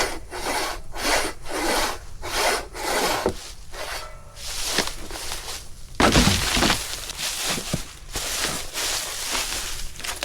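Hand saw cutting firewood, rhythmic back-and-forth strokes through wood, with one loud crack about six seconds in before the sawing goes on.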